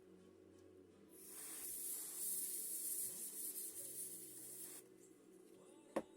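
Aerosol spray hissing steadily for about three and a half seconds, starting about a second in, then a single sharp click near the end.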